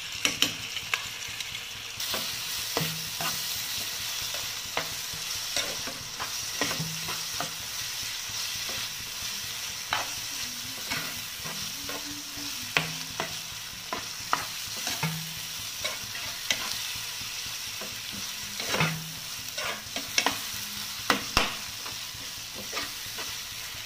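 Onions, tomatoes and ginger-garlic-green chili paste sizzling in hot oil in a frying pan while a steel spoon stirs them, with frequent sharp clicks and scrapes of the spoon against the pan.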